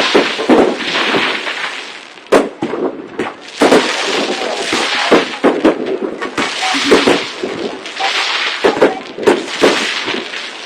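Fireworks going off in a dense, continuous barrage of overlapping bangs and crackles, easing briefly about two seconds in before picking up again.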